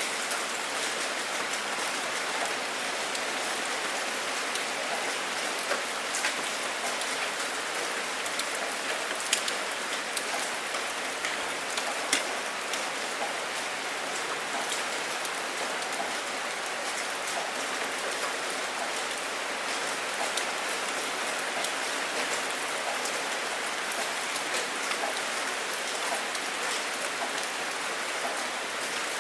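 Steady rain falling, a constant hiss with many sharp individual drops ticking on a surface.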